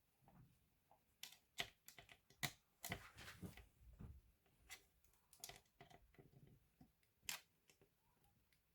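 Scattered faint clicks and taps, most of them from about one to six seconds in, with a few soft rustles: small hard plastic and metal laptop parts being handled as the notebook is worked on.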